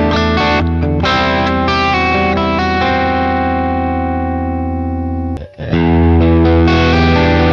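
Charvel electric guitar with a Seymour Duncan bridge humbucker, played through an amp. Chords and notes are let ring for several seconds, then a brief drop-out about five and a half seconds in before louder playing resumes.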